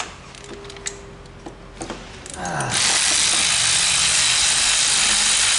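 A few light tool clicks, then about two and a half seconds in a loud, steady hiss of compressed air starts suddenly and keeps going, as the engine's spark plugs are being taken out.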